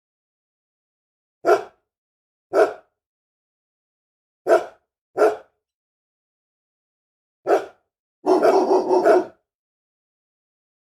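An angry dog barking: five single barks spaced one to two seconds apart, then a quick run of barks about eight seconds in.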